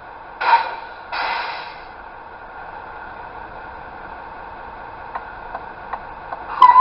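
Scale RC truck sound unit through its small speaker: two short hisses about half a second and a second in, then light ticking a little over twice a second, with a louder short blip near the end.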